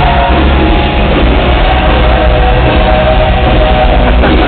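Rock band playing loudly at a soundcheck: held guitar notes over a dense, steady low end.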